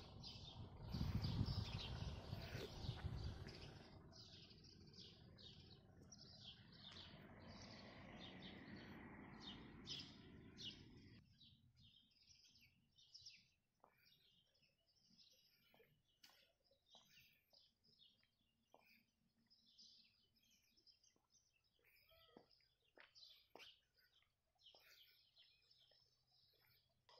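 Small birds chirping again and again, in short high notes. A steady background noise sits under them for the first eleven seconds or so, with a louder low rumble in the first few seconds, and then drops away.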